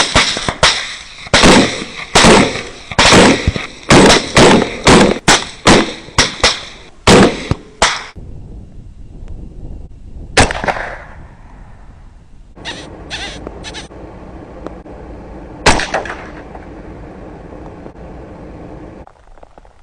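Rapid gunfire: about twenty shots in quick succession over eight seconds, then a single shot, three quick shots and one last shot. A faint steady hum lies underneath in the later part.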